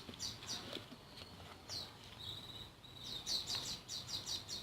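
Small birds chirping in the background: quick, high chirps falling in pitch, coming several a second and thickest near the end, with one short steady high note just past the middle.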